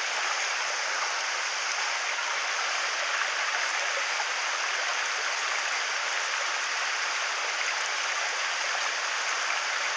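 Mountain stream running over and between rocks, a steady rushing of shallow water.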